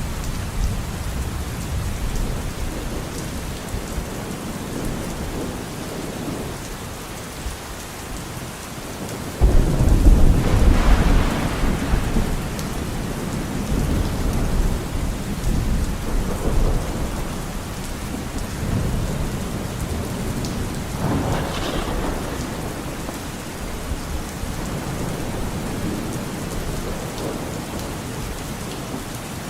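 Steady rain falling in a forest, with thunder. A sudden loud crack of thunder about a third of the way in rumbles on for a few seconds, and softer rolls of thunder follow later.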